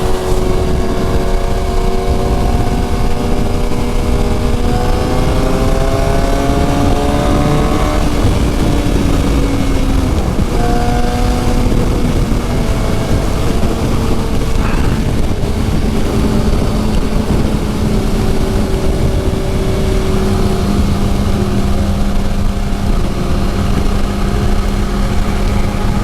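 Suzuki GSX-R750 inline-four engine running at road speed under heavy wind rush. The engine note climbs slowly over the first eight seconds, breaks off about ten seconds in, then holds steady.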